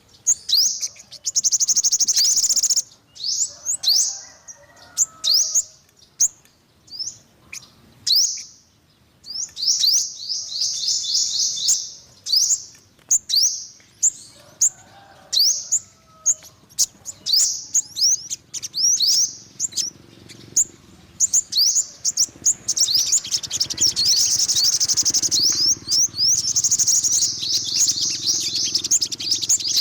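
Yellow-bellied sunbird singing: rapid runs of high, thin sweeping chirps, separated by short gaps, that run together into a fast unbroken trill in the last third.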